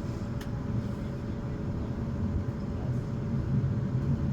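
Class 450 Desiro electric multiple unit running, heard from on board: a steady low rumble with a constant hum, and a single click about half a second in.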